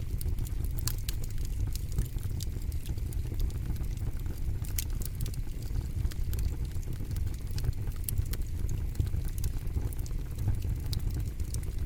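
Campfire burning with a steady low rumble of flames and frequent sharp crackles and pops from the burning wood.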